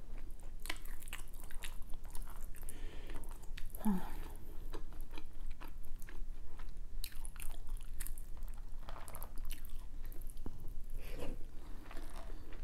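Close-miked eating sounds: a person chewing and biting food, with irregular small crunches and clicks.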